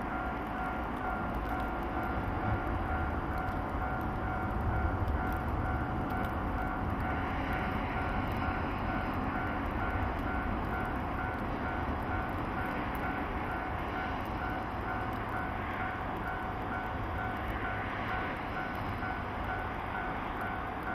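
Low, steady rumble of a freight train hauled by an electric locomotive approaching from a distance, with a repeating bell-like warning chime ringing at about two strokes a second throughout, typical of a Japanese level-crossing signal.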